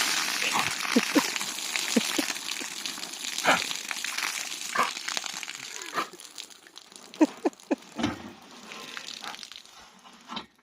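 Rainwater pouring and splashing off a roof edge, with short wet snaps and gulps from a dog catching the stream in its mouth. The pouring is loudest at first and fades over the second half.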